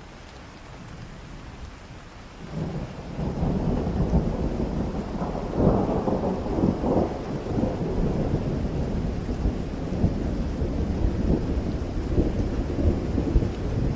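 Steady rain, then a long roll of thunder that builds up a couple of seconds in, crackles at its loudest a few seconds later, and keeps rumbling to the end.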